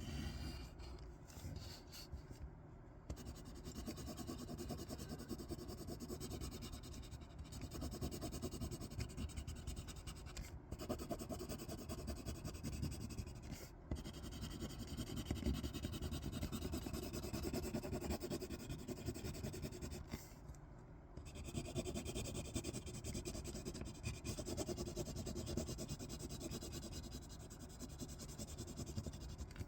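Close-miked scratching and rubbing on paper, going on steadily with a few brief pauses.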